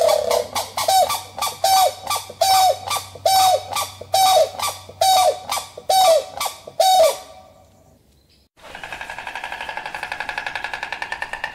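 Grey crowned crane calls: a series of short honks, about one a second, that stop about seven seconds in. About a second and a half later a different animal call begins, a fast, even pulsing at about six pulses a second.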